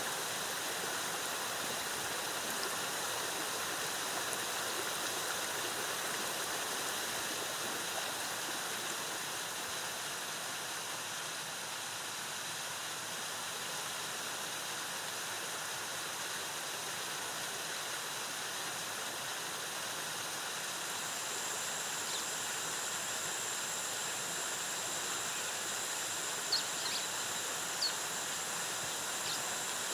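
Waterfall cascading in a steady rush, with a steady high-pitched tone above it and a few short high chirps near the end.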